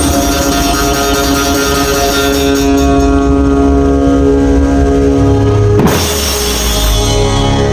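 Dhumal band music played loud: long held melody notes over heavy drums and bass, with a brief swooping glide about six seconds in.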